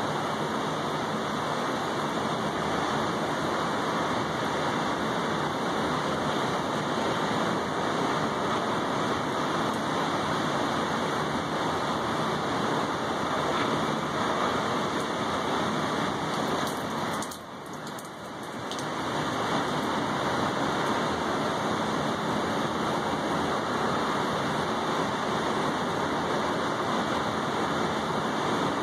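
Steady rain falling on a balcony's wet table and railing. The level dips briefly about two-thirds of the way through.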